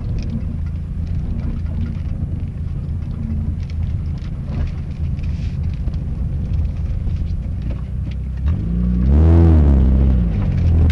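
Mitsubishi Lancer Evolution IX rally car's engine idling with a low steady rumble, heard from inside the cabin, then revved once about eight and a half seconds in, its pitch rising and falling back over about two seconds.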